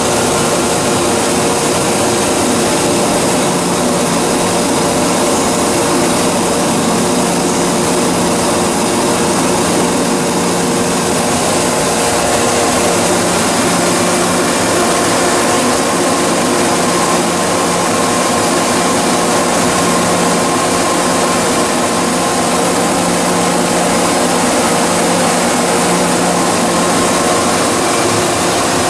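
Double-stage plastic recycling extruder line running at full operation: a loud, steady mechanical din with a constant motor hum and several held tones over a dense hiss.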